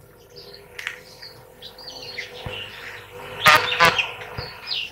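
Faint bird chirps in the background over a steady low hum, with two short sharp knocks about half a second apart a little after the middle.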